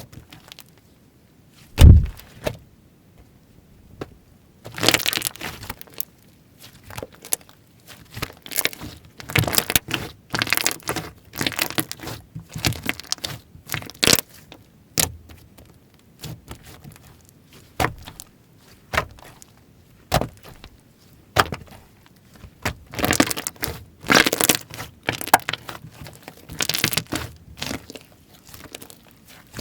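Slime being squeezed, stretched and pressed by hand, giving irregular bursts of crackling and popping. A loud thump about two seconds in.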